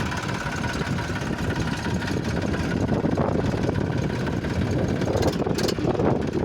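Tractor diesel engine running steadily, a little louder about halfway through and again near the end.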